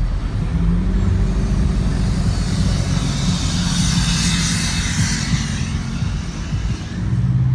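Truck engines running low and steady as trucks cruise past, with a hiss that swells and fades in the middle as one passes close.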